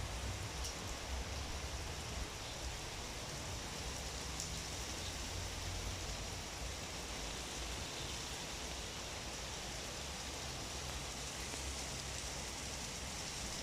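Heavy rain pouring steadily in a storm, with a low, uneven rumble of wind gusts underneath and a few sharper drop ticks.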